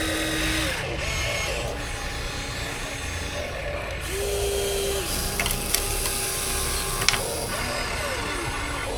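Small electric motors and gearboxes of 1:14-scale Huina RC construction models whining in short runs, each starting and stopping after a second or two, some with a brief rising or falling pitch. Two sharp clicks in the middle.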